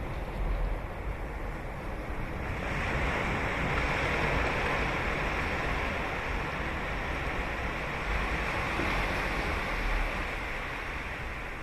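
Sea waves breaking on the shore: a wash of surf swells up about two and a half seconds in and slowly fades.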